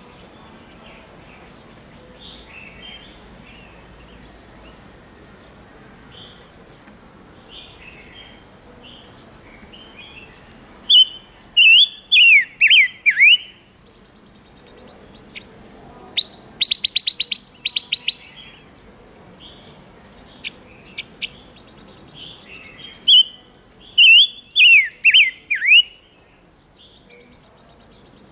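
Silver-eared mesia (ngũ sắc) calling: soft chirps throughout, with two loud runs of quick downward-sweeping whistled notes, one before and one after a fast dry rattle of ticks in the middle.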